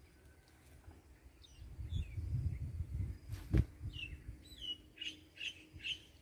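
A small bird chirping: a series of short, quick notes that come closer together near the end. Under it is a low rumble on the microphone, with one sharp knock about three and a half seconds in.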